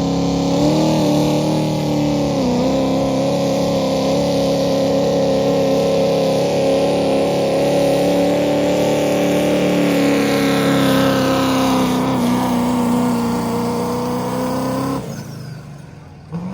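Pro street diesel pickup truck engine held at high revs under full load while pulling the sled. Its pitch sags slightly a couple of times, then the sound cuts off sharply about fifteen seconds in.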